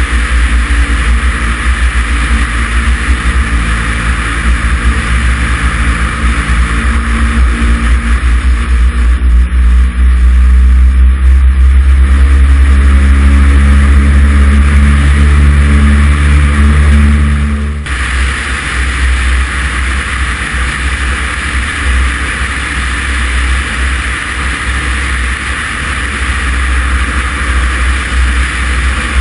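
Cessna 140's light-aircraft piston engine and propeller running steadily. About eight seconds in, the engine note rises and grows louder as power is added. Near eighteen seconds it falls off abruptly to a lower, steady drone as the power is pulled back.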